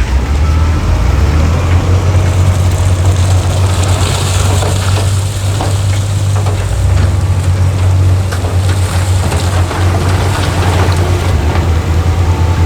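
Heavy diesel earthmoving machinery running steadily: a deep engine drone with clattering and gravelly noise over it.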